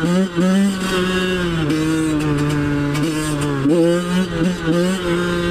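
Two-stroke dirt bike engine running at low revs and bogging: the revs hold mostly steady, with a brief sag just after the start and a couple of small rises about two-thirds of the way in.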